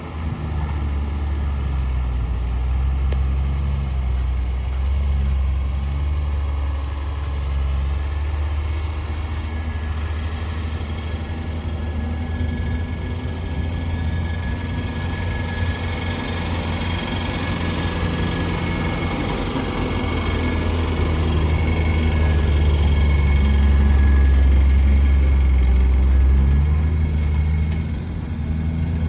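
Heavy diesel engine running steadily with a low rumble, its revs rising and falling slowly and growing louder for several seconds before easing off near the end.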